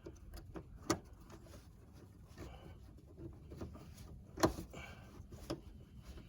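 Trim covers being fitted back onto a car's rear seat by hand: a few scattered clicks and knocks, the loudest about four and a half seconds in.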